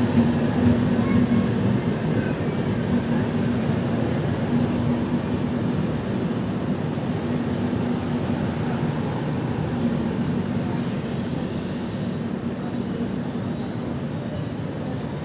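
Express passenger train arriving at a station: a steady rumble of the coaches rolling along the track with a low hum, slowly getting quieter as it slows.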